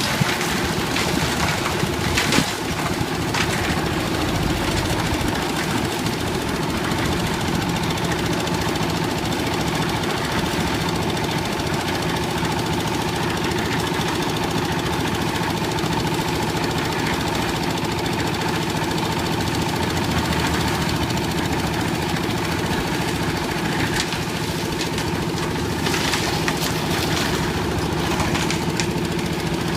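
Concrete mixer's old diesel engine running steadily at a constant speed, with a few light clatters about two seconds in and near the end.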